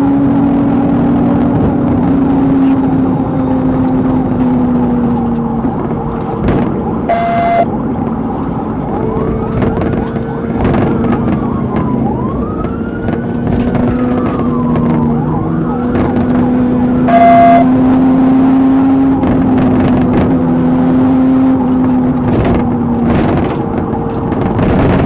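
Police siren wailing in long rising and falling sweeps, over a steady vehicle drone. Two short beeps sound about ten seconds apart.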